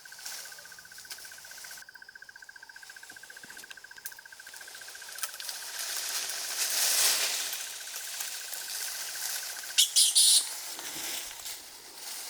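Insect trilling steadily on one high pitch, stopping about ten seconds in. A rustling wash swells around the middle, and a couple of short, loud, high-pitched bursts come near the end.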